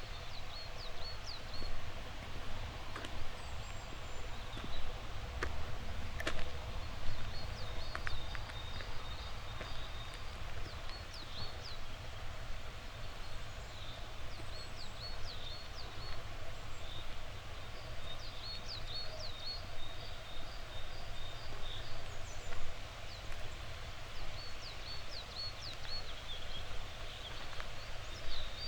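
Small birds chirping over and over in short, high calls, over a steady low rumble of outdoor ambience. A few sharp clicks come about six and eight seconds in.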